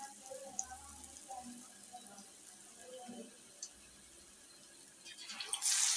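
Batter-coated potato patty shallow-frying in hot oil in a pan, a soft steady bubbling sizzle. About five and a half seconds in, a much louder sizzling hiss starts.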